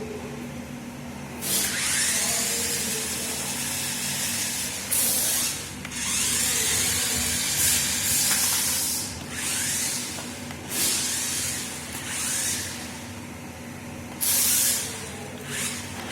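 Toy remote-control monster truck driven in bursts, its small electric motor and gears whirring with a hiss that starts and stops several times.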